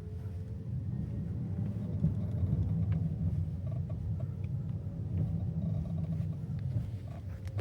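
Road and tyre rumble inside the cabin of a Kia EV3 GT-Line while it is driving, growing louder over the first second or so, with a few faint clicks over it.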